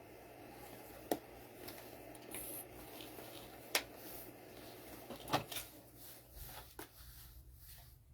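Faint handling sounds of craft materials being worked: a few soft, separate clicks and taps, with a low steady hum underneath.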